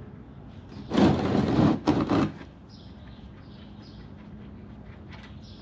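Two short scraping noises as something is set and slid into place. The first comes about a second in and lasts under a second; the second, shorter one follows just after.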